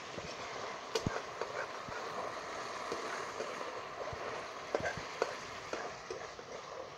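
Chicken pieces in masala sizzling in a kadhai over a strong fire, with a spatula stirring and knocking against the pan several times, sharpest about a second in and again around four and five seconds in.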